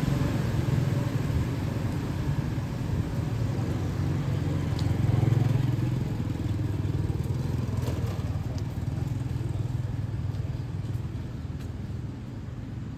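City street traffic: motorbike and scooter engines running past, swelling about five seconds in and then fading towards the end, with a few light clicks.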